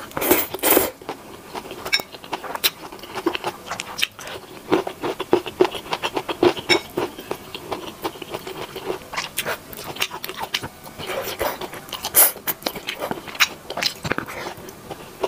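A person chewing a mouthful of stir-fried instant noodles and beef: a dense run of wet mouth clicks and smacks, with louder noisy moments about half a second in and again about twelve seconds in.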